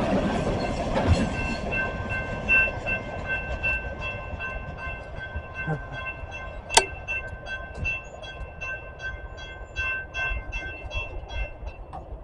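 A passing train's rumble fades away in the first couple of seconds, then a railroad grade-crossing bell rings rapidly, about three strokes a second, and stops near the end. A single sharp click comes about seven seconds in.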